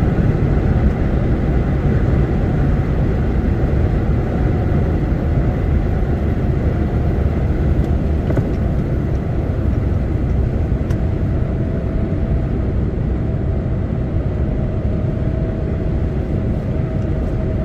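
Steady engine and road rumble inside a truck's cab while driving, with a faint steady whine coming in partway through.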